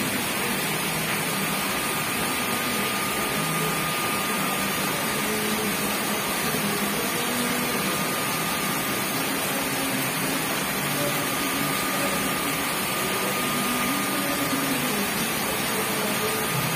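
Heavy rain pouring down steadily: an even, unbroken hiss, with a thin steady high tone running through it.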